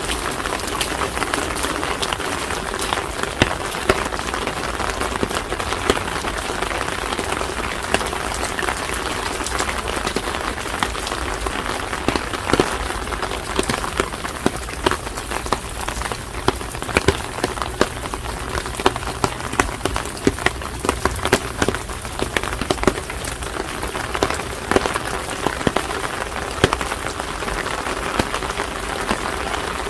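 Steady rain falling, with many close, sharp drop hits ticking irregularly over the even hiss of the downpour.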